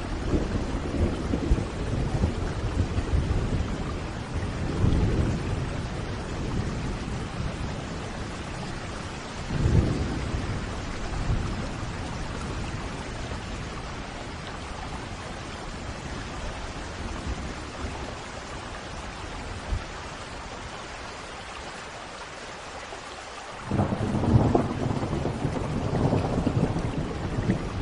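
Thunderstorm: steady rain falling under rolling thunder. The thunder rumbles low in the first few seconds, swells again about ten seconds in, eases to a lull, then a new rumble starts abruptly about 24 seconds in.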